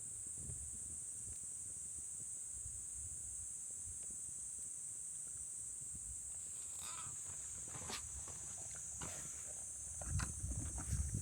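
A steady, high-pitched insect chorus, with a few sharp crackles and pops from the wood campfire in the second half.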